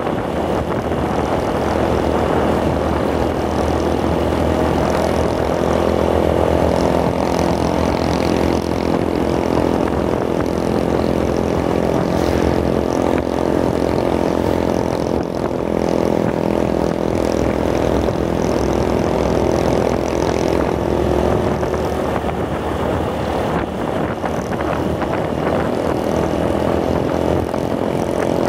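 Honda motorcycle's engine running steadily at cruising speed while riding, heard close to the microphone.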